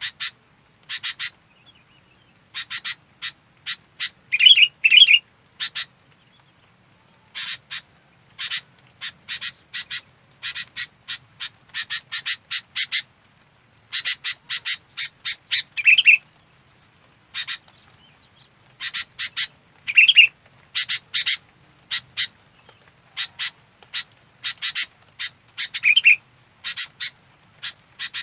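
Sooty-headed bulbul (kutilang) calling in bursts of quick, sharp chattering notes. A louder, lower note breaks in every few seconds.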